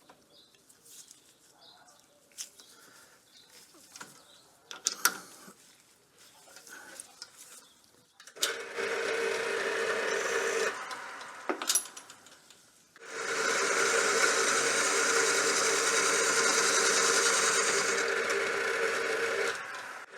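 A few light clicks of handling, then a power tool runs steadily for about two seconds, stops, and starts again a few seconds later to run on with a steady hum and hiss.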